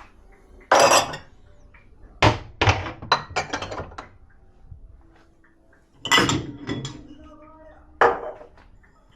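Dishes and cutlery clattering and clinking as they are handled in and out of a dishwasher rack: a loud clatter about a second in, a run of clinks a moment later, and more knocks near the end.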